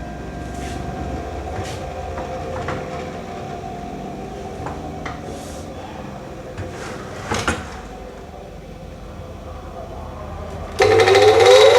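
Steady low machine hum with scattered light knocks, then about eleven seconds in a woodworking power tool starts loudly, its whine rising in pitch as it spins up.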